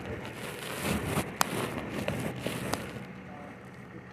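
Rustling and crackling handling noise with several sharp clicks, over a steady low hum.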